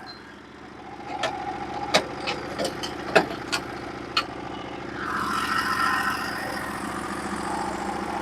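Small gas engine of a Norwood HD36v2 portable bandsaw mill idling steadily, with a few sharp clicks in the first half and a louder, fuller noise joining from about five seconds in.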